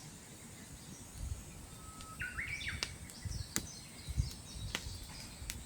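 Small birds chirping in short stepped calls, with a few sharp clicks and soft low thumps between them.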